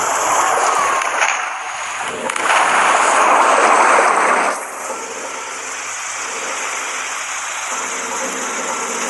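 Rushing, splashing water, a noisy wash that swells loudest for a couple of seconds in the middle and then settles to a steadier, quieter rush.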